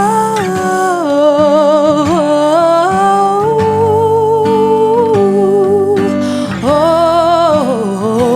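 Female voice singing a wordless, drawn-out melodic run with vibrato over guitar accompaniment, pausing briefly about six seconds in before the line resumes.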